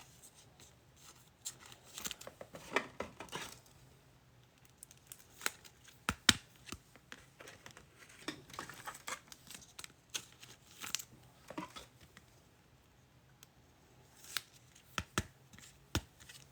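Faint handling of sports trading cards and their packaging: scattered short scrapes, flicks and crinkles as cards are sorted by hand.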